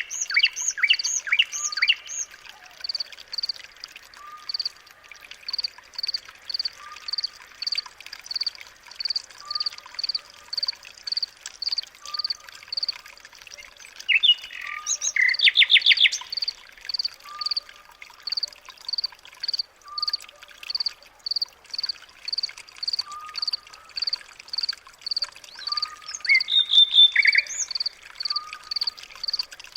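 Birds calling: a high chirp repeating about twice a second, a lower short note every couple of seconds, and bursts of rapid trilling near the start, about halfway and near the end.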